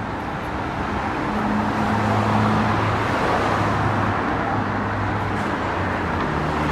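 Road traffic: a motor vehicle going past with engine hum and tyre noise, growing loudest about two seconds in and then easing slightly.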